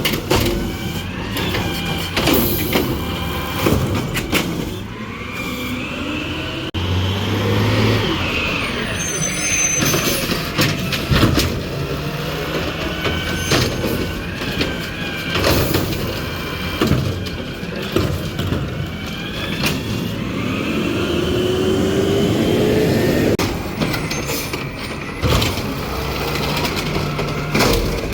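Refuse truck at work: the engine runs under many sharp clanks and bangs, with whines that rise and fall, including a rising one a little past twenty seconds in.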